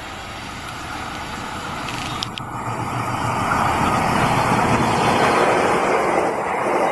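Diesel-electric locomotive-hauled passenger train approaching and passing at speed: a rumbling rush of engine and wheels that grows steadily louder as the coaches go by close.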